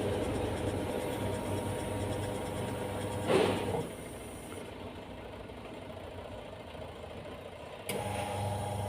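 Washing machine motor running with a steady hum, cutting out about four seconds in and starting again abruptly near the end. The motor turns but the part it should drive does not turn.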